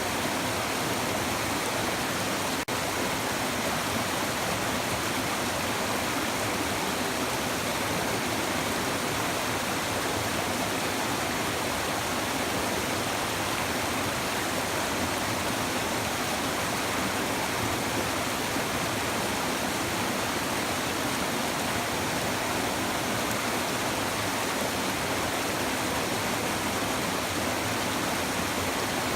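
A shallow river babbling and rushing steadily over stones, an even wash of running water.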